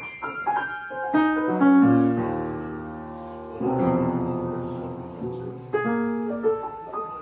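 Piano music: quick runs of notes and two held chords, the loudest about two seconds in.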